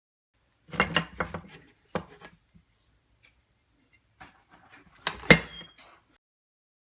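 Metal parts being handled on a workbench, clinking and clattering in two bursts. The loudest knock comes about five seconds in, followed by a short metallic ring.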